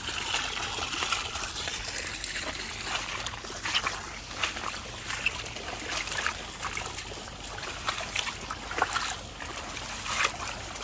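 Water trickling, with irregular small drips and crackles throughout.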